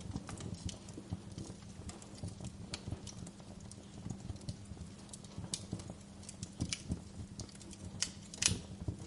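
Wood fire crackling, with irregular sharp snaps and pops over a low rumble; one louder pop near the end.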